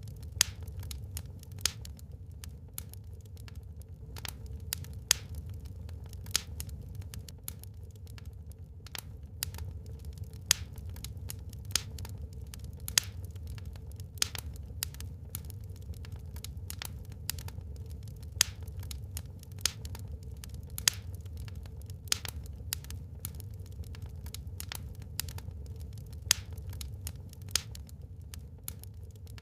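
Wood fire crackling in a fireplace: irregular sharp pops and snaps, several a second with a few louder ones, over a steady low rumble.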